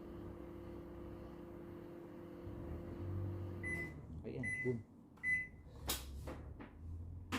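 Panasonic microwave oven running with a steady hum, its blower working again, which stops a little under four seconds in as the timer runs out. Three short beeps follow, signalling the end of the cycle, then a few sharp clicks and knocks.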